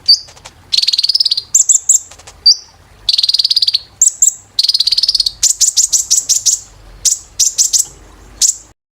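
Kolibri ninja sunbird singing: rapid, high-pitched trills and quick series of sharp notes in short bursts with brief pauses between phrases, stopping abruptly near the end.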